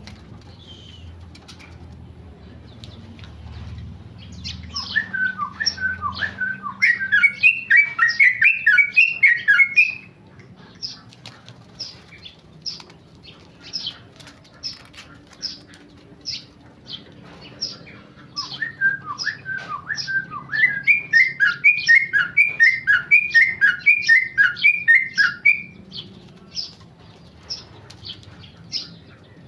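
Yellow-vented bulbul (trucukan) singing its rapid rolling song, "ropel": two long runs of fast repeated chirps, the first about five seconds in and the second past halfway, with single chirps in between.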